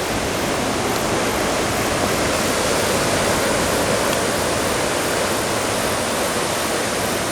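Steady rushing of rough sea surf churned up by an approaching typhoon, an even noise with no separate breaks or pauses.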